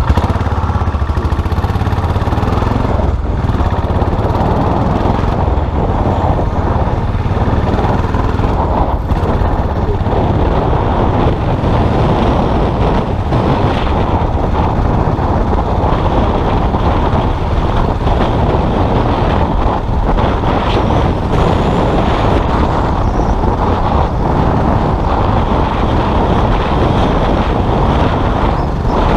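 Custom motorcycle engine running steadily under way while riding.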